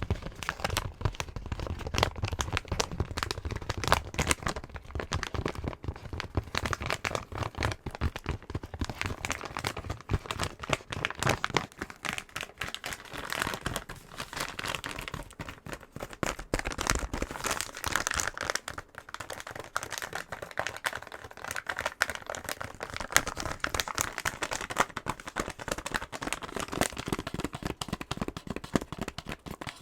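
Fingernails tapping and scratching fast on a box: a dense stream of quick taps mixed with scratchy rubbing.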